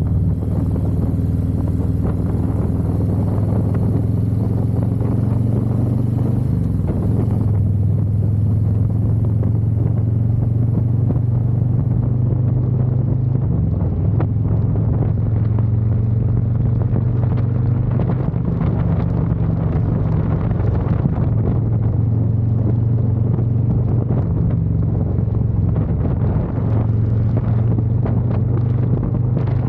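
Harley-Davidson motorcycle engine running under way with a steady low drone; its pitch steps up or down a few times as speed or gear changes.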